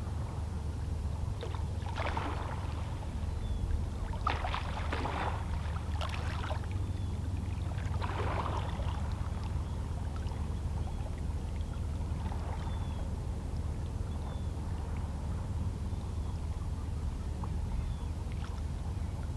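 Small, lazy sea waves lapping and splashing against shoreline rocks in irregular washes, the strongest a few seconds in, over a steady low rumble of the sea. Faint short calls of distant seabirds come now and then.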